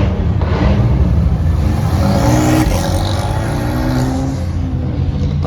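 Car engines rumbling through their exhausts, with an engine revving in the middle, its pitch rising and falling.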